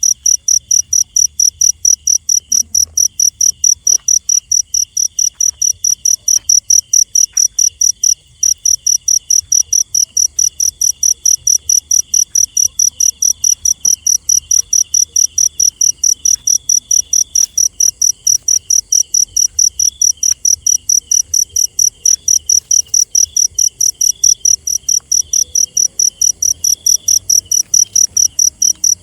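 A cricket chirping loudly and steadily, about three to four high chirps a second, over a fainter broken trill of other insects. The chirping breaks off for a moment about eight seconds in.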